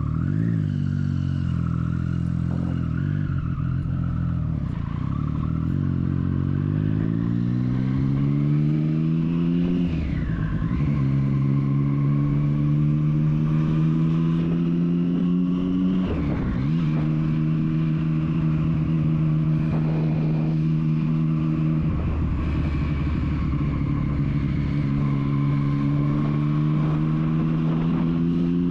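Triumph Street Triple's three-cylinder engine pulling through the gears: the revs climb for several seconds, drop at an upshift about ten seconds in and again about sixteen seconds in, then hold steady at cruising speed, rising slightly near the end.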